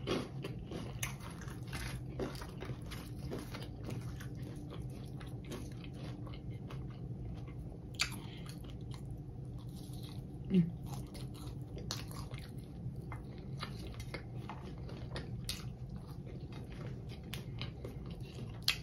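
Close-up mouth sounds of biting and chewing crunchy fried seafood crusted in hot Cheetos: a steady run of crisp crunches.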